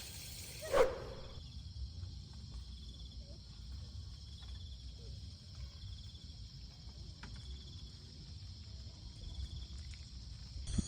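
Night insects such as crickets trilling steadily, with a softer chirp repeating about once a second, over a low rumble. A single short thump sounds about a second in.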